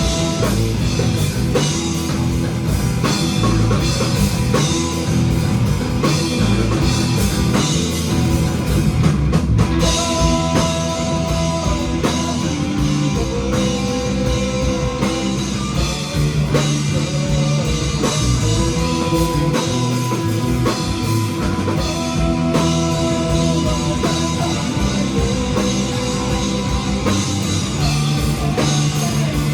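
Live rock band playing an instrumental passage: drum kit and electric guitars, with long held notes that step between pitches over a dense, steady backing.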